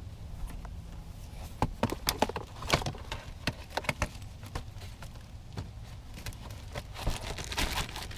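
Scattered clicks and rustling from a cabin air filter and its plastic housing being handled, over a steady low hum.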